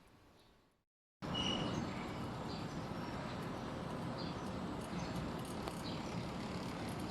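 A quiet hum fades out, then after a short gap a steady rushing noise starts abruptly about a second in: the outdoor unit of a Panasonic inverter split air conditioner running. Short high bird chirps sound over it now and then.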